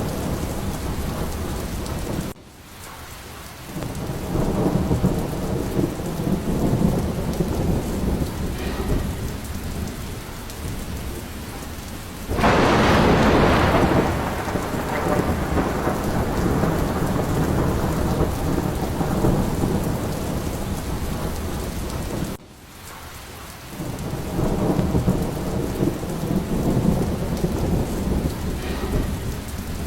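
Steady heavy rain with low rolling thunder throughout. About twelve seconds in, a loud thunderclap breaks out suddenly and rumbles away over the next few seconds. The rain and thunder drop off abruptly for a moment twice, about twenty seconds apart.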